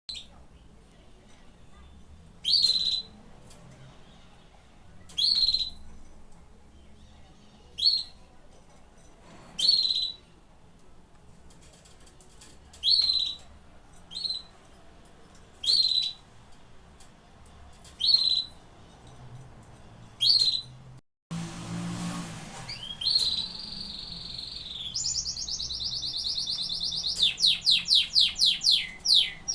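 Domestic canary giving single short chirps about every two to three seconds, then, after a brief break a little past two-thirds of the way in, breaking into song with a long trill and a run of rapid repeated notes.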